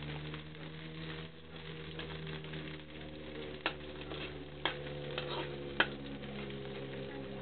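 Noodles sizzling in a wok as they are stir-fried, with the spatula knocking against the pan three times in the second half, the last knock the loudest. A steady low hum runs underneath.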